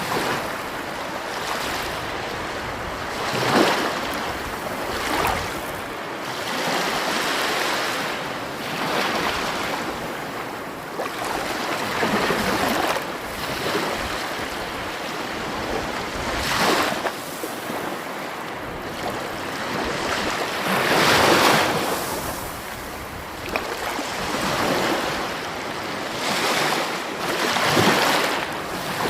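Sea waves breaking and washing up on the shore: a continuous hiss of surf that swells every few seconds as each wave comes in, then falls back.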